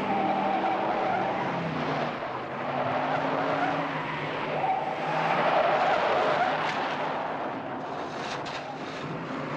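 A motor vehicle engine running hard at speed, its pitch shifting up and down, over a noisy rush of tyres on the ground.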